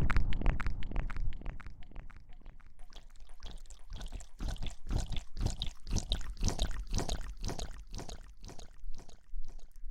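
Close-miked ASMR rustling and scrubbing sounds. A louder wash fades over the first second or so, then a quick run of crisp, crackly strokes comes from about three seconds in until near the end.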